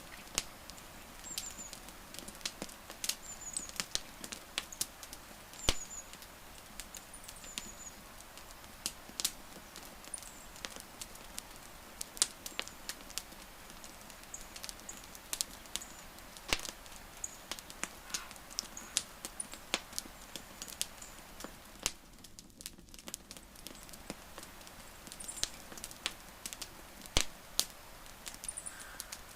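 Wood campfire crackling: frequent sharp, irregular pops and snaps of burning wood over a soft steady hiss, with faint short high-pitched chirps now and then.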